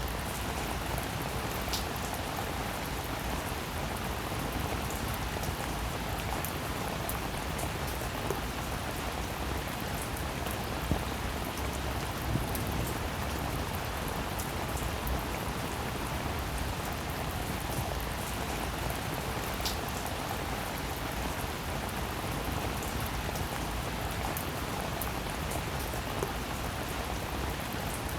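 Steady rain falling, an even hiss with the scattered ticks of individual drops striking a surface.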